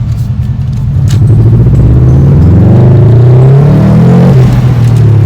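A car engine revving up as the car accelerates away, its note climbing for a few seconds and then dropping off about four seconds in, as at a gear change or lift-off.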